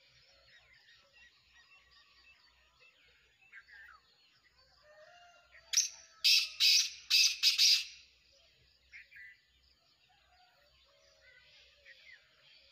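Black francolin (kala teetar) giving its loud, harsh call once: a short opening note followed by four quick grating notes, over about two seconds in the middle. Other small birds chirp faintly throughout.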